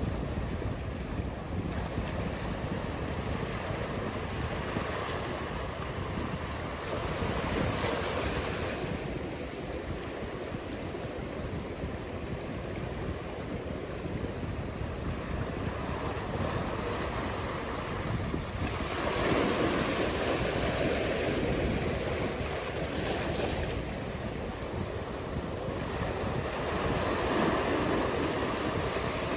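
Ocean surf breaking and washing ashore, a steady rush that swells louder with each wave set, with wind buffeting the microphone.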